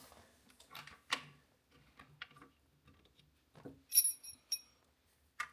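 Sparse light clicks and knocks of parts being handled during rowing-machine assembly, with a brief bright metallic clink, like loose metal hardware, about four seconds in.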